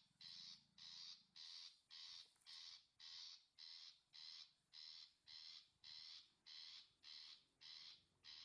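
Long-tailed shrike (cendet) giving a long, even run of harsh scolding calls, about two a second.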